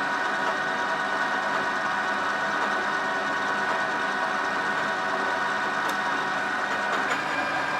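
Metal lathe running steadily with a constant whine, turning aluminum bar stock down in diameter.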